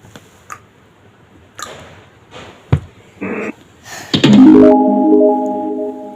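A few faint knocks and a short noisy burst, then about four seconds in a loud, held electronic keyboard chord of several steady notes that sounds for about two seconds and cuts off.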